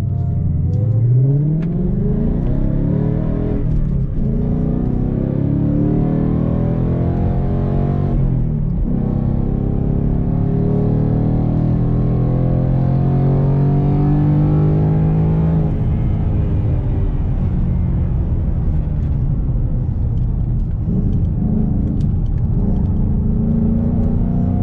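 Ford Mustang engine heard from inside the cabin, accelerating hard from a standstill, its note climbing and breaking at each upshift. About 15 seconds in the note drops as the car slows for a corner, then climbs again near the end.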